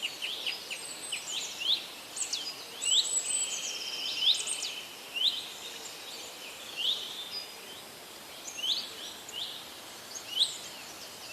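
Birds chirping and singing: many short, quick high-pitched sweeping notes, thick in the first few seconds, then single chirps about once a second, over a faint steady background hiss.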